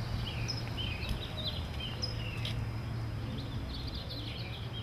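Small birds chirping repeatedly, with a low steady rumble of outdoor background noise underneath.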